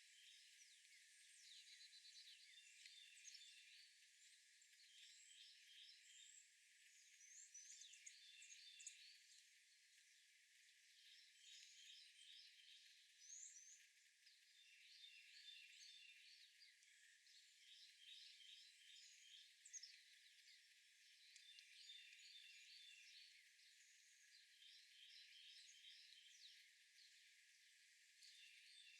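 Faint birdsong: short phrases of quick, high chirps repeated every two seconds or so, with scattered single chirps in between, over a light hiss.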